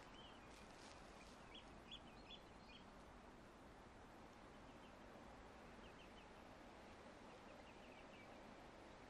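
Near silence: faint woodland ambience with a few soft, short bird chirps, clustered in the first few seconds and a few fainter ones later on.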